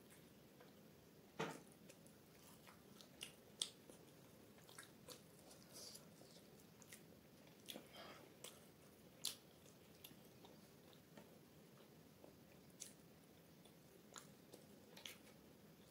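Faint close-miked chewing of soft flatbread and curd, with scattered irregular wet mouth clicks.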